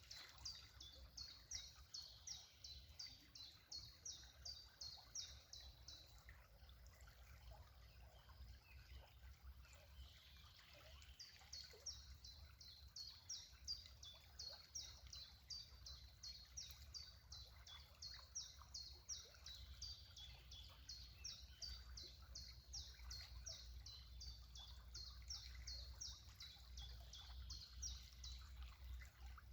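A bird singing a long run of quick, high chirps, about three or four a second. It pauses for several seconds and then starts again, over a faint low rumble.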